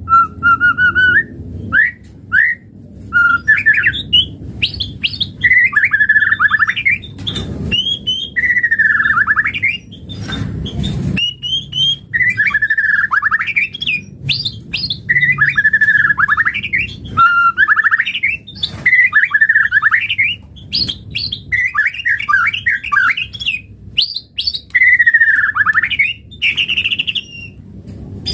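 White-rumped shama singing a loud, varied song. It is a continuous run of short phrases, a second or two each, made of rapid warbles, trills and downward-sweeping whistles.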